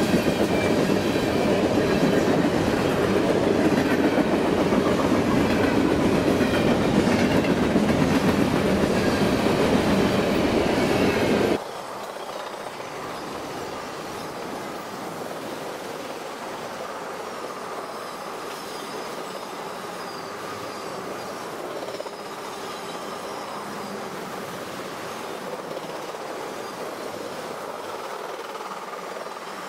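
Freight train cars (tank cars, boxcars and autoracks) rolling past on the rails, with thin wavering wheel squeal above the steady rumble. About twelve seconds in, the sound drops suddenly to a quieter, steadier rolling.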